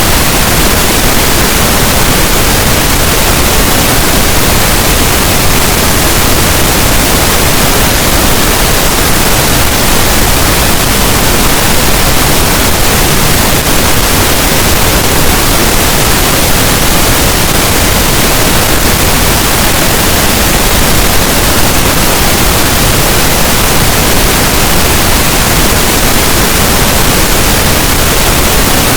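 Synthetic pink noise: a loud, steady, unchanging hiss spread evenly from deep low to high pitches, with no events or changes.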